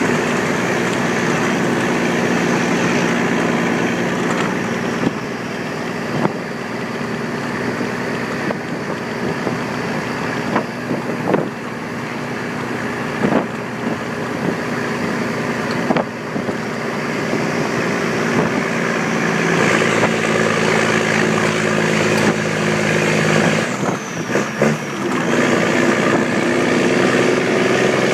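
Scania 111's 11-litre turbocharged straight-six diesel with a straight exhaust, pulling the unladen truck uphill under steady throttle. It grows louder partway through. Near the end the engine note breaks off briefly amid a few knocks, like a gear change, then pulls on. Occasional knocks come through over the engine.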